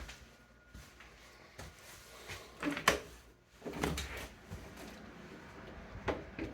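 A door being opened and handled: a few scattered clicks and knocks, with a low thump about four seconds in.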